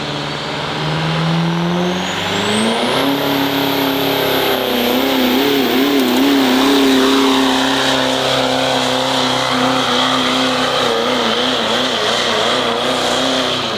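Turbo diesel pickup engine at full throttle pulling the sled: it revs up over the first three seconds, then holds steady under heavy load, its pitch wavering a little, with a high whistle that rises and holds above it. It lets off right at the end.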